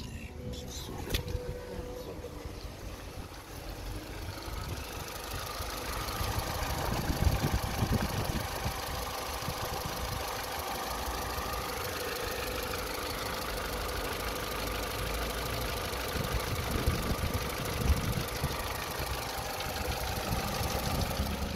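Opel Tigra B's Z14XEP four-cylinder petrol engine running steadily, growing louder about six seconds in and then holding level.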